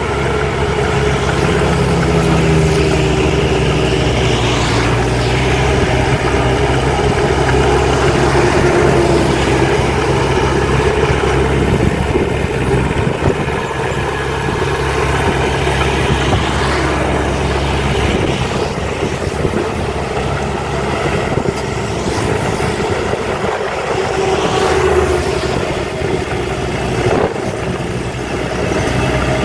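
Heavy diesel earthmoving machinery (dump truck and bulldozer) running steadily, the engine note shifting a few times.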